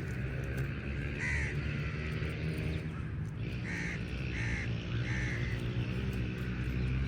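Crows cawing: four short caws, one a little over a second in and three in quick succession around the middle, over a steady low hum.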